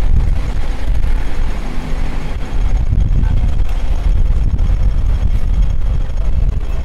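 Steady rumble of street traffic, vehicle engines running together in a busy street.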